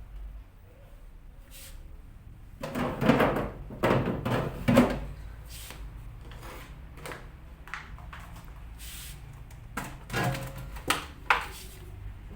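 Food containers and bottles being set back into fridge shelves and drawers, with knocks and rattles in two bursts, one about three to five seconds in and another near ten to eleven seconds.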